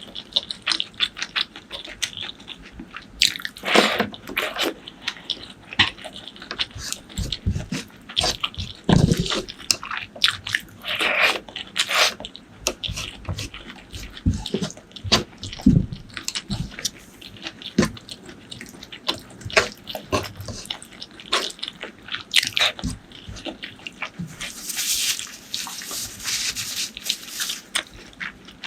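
Close-miked eating: a person chewing and biting, with many short wet clicks and smacks. There is a longer hiss near the end.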